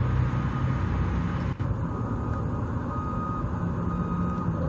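Backup alarm of a construction vehicle beeping, about three long beeps in the second half, over a steady low engine rumble.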